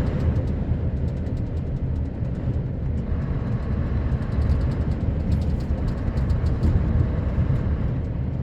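Sanding truck running on a slippery road, heard from inside the cab as a steady low rumble. A scatter of faint ticks rides over it, mostly in the second half.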